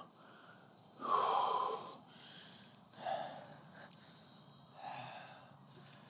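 A man breathing out heavily into a close microphone: one strong exhale about a second in, then two softer breaths.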